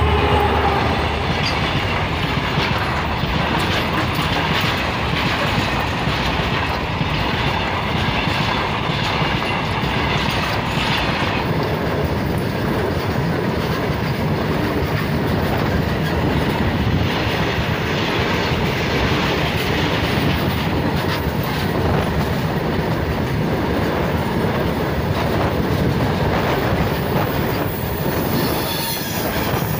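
Diesel-hauled freight train of covered boxcar wagons passing close by: a steady rush of wheel and rail noise with clickety-clack over the rail joints, a low rumble at the start as the locomotive goes by, and a high wheel squeal near the end.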